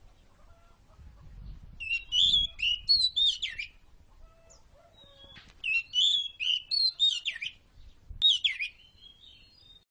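Oriental magpie-robin singing: three bursts of rapid, high whistled notes that slide up and down, with short pauses between them.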